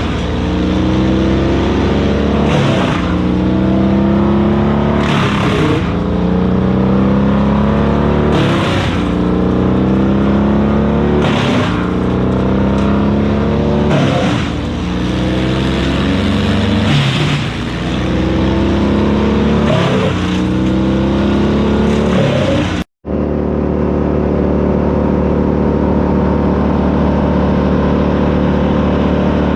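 Vermeer BC1000XL wood chipper's gas engine under load as wood is fed through. About every three seconds the engine pulls down with a burst of crunching, then its pitch climbs back. After a brief dropout about 23 seconds in, the engine runs steadily with no dips.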